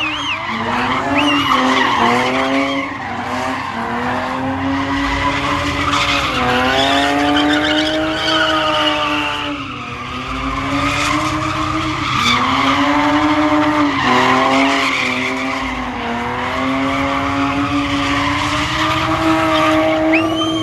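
Car engine held at high revs, its pitch swinging up and down every few seconds, with tyres squealing and skidding throughout.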